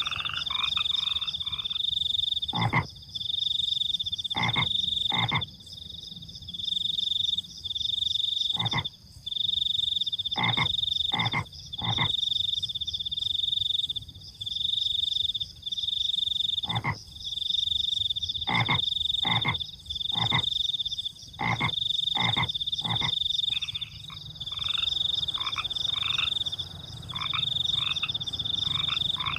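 Night chorus of crickets and frogs. A high, steady cricket trill comes in phrases with short breaks and is the loudest sound throughout. Frogs croak over it in short single calls, some in quick runs of two or three, and a faster chorus of pulsed frog calls fills the first couple of seconds and the last few seconds.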